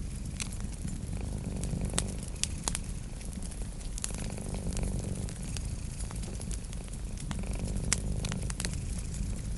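A cat purring in a steady low rumble, with a wood fire crackling in sharp, scattered pops.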